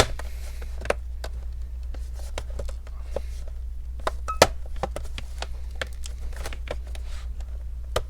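Scattered small clicks and taps of plastic as a laptop's back cover is pried and handled, with a sharp click right at the start and another about four and a half seconds in, over a steady low hum.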